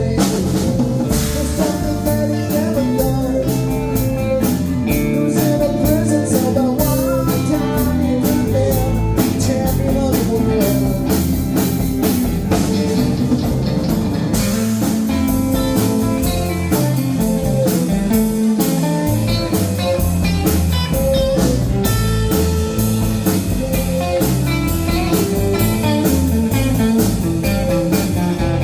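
Live band playing a blues-rock number, a guitar carrying a bending melodic line over bass and a steady drum beat.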